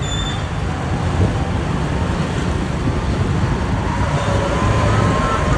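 Road traffic noise with a heavy truck's engine running steadily, its low engine sound dominating; a faint, slightly rising whine runs through the last second and a half.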